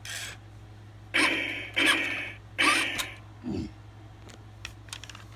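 Toy robot truck's electric drive motor running in short bursts, four in the first three seconds, as the toy cycles through its motor test mode. Faint light clicks follow.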